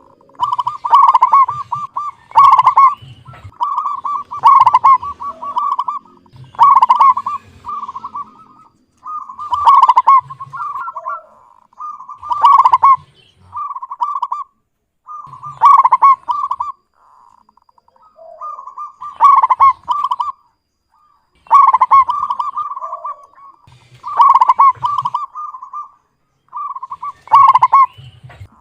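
Zebra dove (perkutut) cooing in a clear voice: a string of rolling, pulsed coo phrases, about one every two seconds, with a few longer pauses between them.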